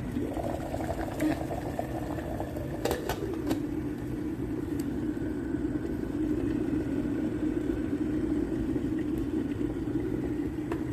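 Glass electric kettle heating water: a steady low rumbling and bubbling, with a few faint clicks about three seconds in.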